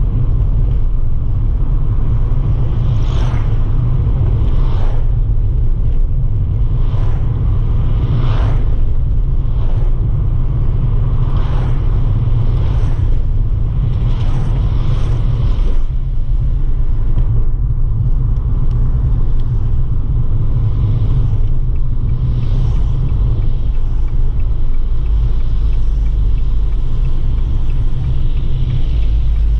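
2018 Abarth 595 Pista's 1.4-litre turbocharged four-cylinder engine and road noise as the car is driven: a steady low rumble, with a string of short rushing sounds between about 3 and 16 seconds in and one more near 22 seconds.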